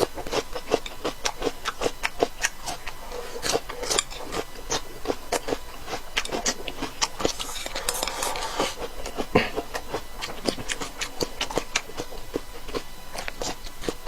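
Close-miked chewing of crunchy cold cucumber salad: a steady run of crisp crunches and mouth clicks, several a second, with a short breathy rustle about eight seconds in.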